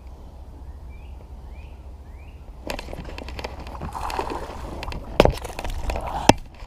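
A bird chirps three times, then from about three seconds in comes splashing and scuffling as a bass is landed into a kayak, with two sharp knocks near the end.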